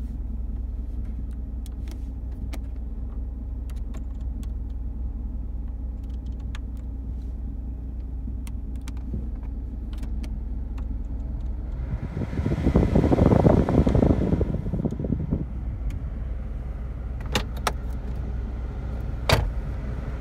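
Saturn LW300's 3.0-litre V6 idling, heard from inside the cabin as a steady low hum, with small clicks of dashboard buttons. About twelve seconds in, the climate control blower rushes louder for a few seconds and then eases off.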